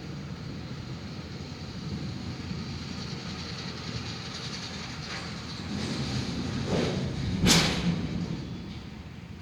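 Thunder from a nearby lightning strike: the rumble builds from about six seconds in to a sharp, loud crack about seven and a half seconds in, over a steady low rumbling noise.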